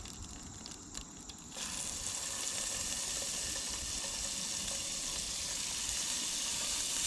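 Butter going into a hot frying pan of oil, starting to sizzle about a second and a half in, then a steady sizzle.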